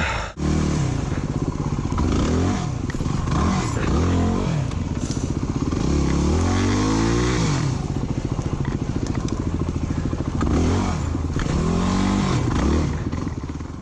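Dirt bike engine revving up and dropping back over and over as it is ridden through tight woods trails.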